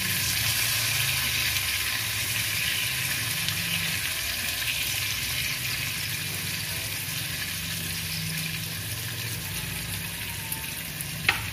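Salted fish pieces frying in hot oil in a pan: a steady sizzle that slowly dies down, with one sharp tap near the end.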